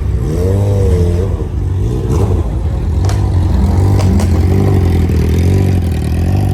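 Car engine running with a loud, deep rumble. In the first second a rev rises and falls. A few sharp clicks or pops come from about two to four seconds in.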